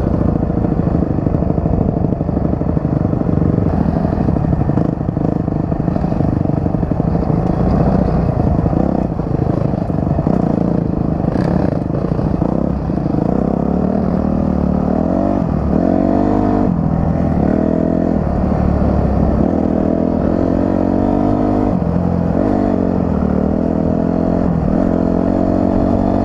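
Dirt bike engine running while riding. The engine's pitch rises and falls repeatedly as the throttle is opened and closed, most clearly in the second half, over a steady rushing noise.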